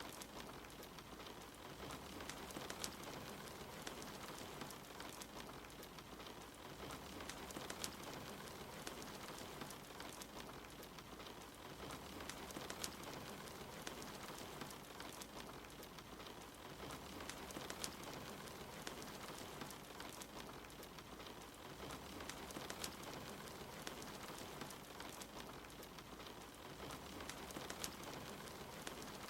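Steady rain falling in an even patter, mixed with a fire crackling, its sharp pops scattered throughout.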